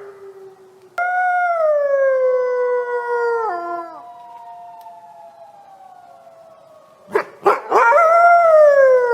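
Wolves howling: long howls that slide slowly down in pitch, a loud one starting suddenly about a second in with a fainter second voice trailing on beneath it. Near the end a few short sharp yelps lead into another loud falling howl, which cuts off abruptly.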